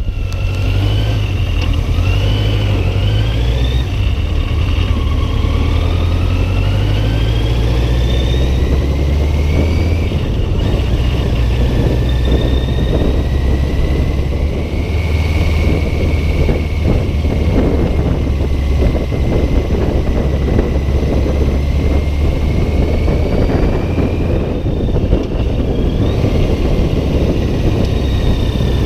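Yamaha XJ900's four-cylinder engine under way on the road, its pitch rising and falling with the throttle, buried in heavy wind buffeting on the microphone.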